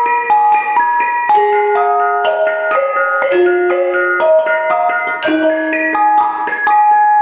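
Bonang, the Javanese gamelan's rows of small bronze kettle gongs, struck with mallets in a running melodic pattern: a few clear ringing notes a second, each ringing on into the next.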